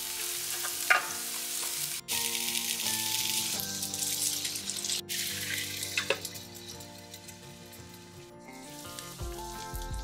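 Carrot and lotus-root slices sizzling in oil in a frying pan, with a clatter as the lotus root is tipped in. The sizzle drops and goes muffled after about six seconds, once a lid is put on the pan to steam-fry on low heat.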